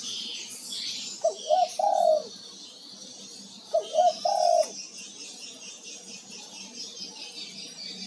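Male spotted dove cooing: two phrases about two and a half seconds apart, each a couple of short notes running into a longer held coo. Thin high chirping of other small birds goes on throughout.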